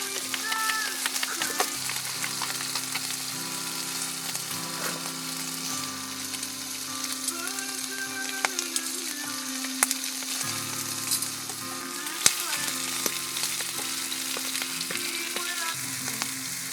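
Food sizzling and spitting in a hot frying pan, with scattered crackles and a few louder pops, over background music with long held notes.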